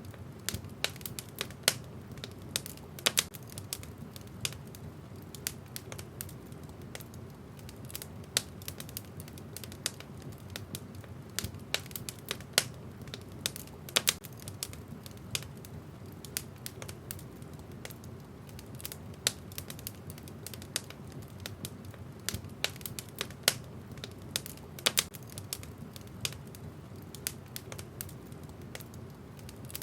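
Wood fire in a fireplace crackling: irregular sharp pops and snaps from the burning logs, several a second and some much louder, over a low steady rumble.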